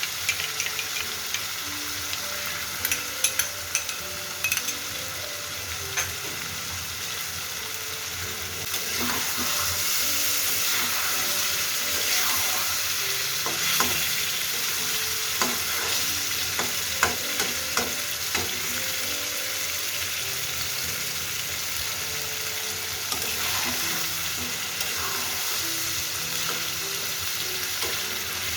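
Chicken in masala gravy sizzling in a pan with curd just added, as a spatula stirs and now and then clicks and scrapes against the pan. The sizzle grows louder about nine seconds in.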